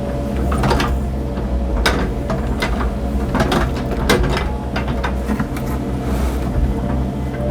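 Cat mini excavator's diesel engine running steadily while the machine works dirt, with a string of irregular sharp knocks and clanks from the bucket and its linkage.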